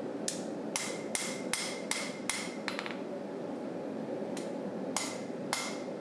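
Forging hammer striking a knife blank on an anvil, peening and spreading the steel, about two to three blows a second with a short ring after each. There is a pause partway through, then three more blows.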